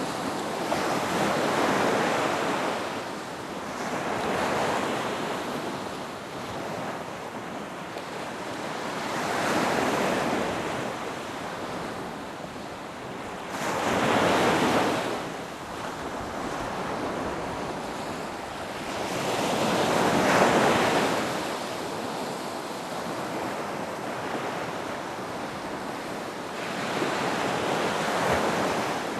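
Ocean waves breaking and washing up a beach, a steady surf hiss that swells with each wave roughly every four to six seconds.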